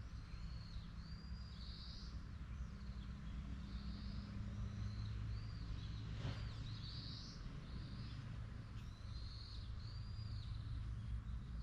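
Small birds calling outdoors: short, high, arched chirps repeated every second or so, over a steady low rumble. A brief sharp noise cuts in a little past the middle.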